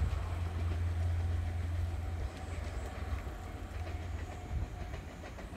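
Diesel-hauled passenger train, a DE10 locomotive with 12-series coaches, moving away along the rails: a low rumble that drops off a little over two seconds in and keeps fading.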